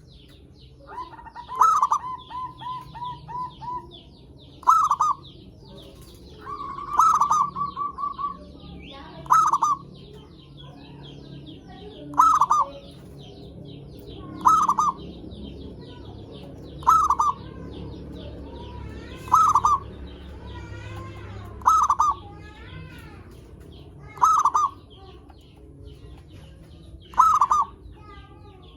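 Zebra dove (perkutut) cooing: a short loud call repeated about every two and a half seconds, and twice in the first eight seconds a longer run of quick rolling notes. Fainter high chirps of small birds run underneath.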